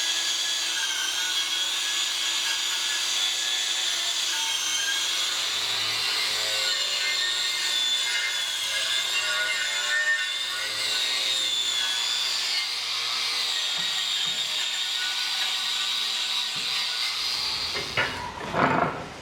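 Power tool cutting with a steady high whine that wavers in pitch, then a few heavy knocks near the end as it stops.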